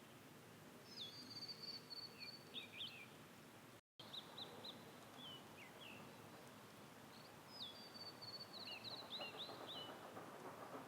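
Ashy minivet calling: two high, ringing trills, each a sharp opening note followed by a quick run of repeated notes, with a few short chirps between them.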